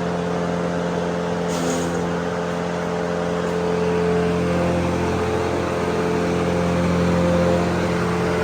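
A machine's motor running at a steady speed.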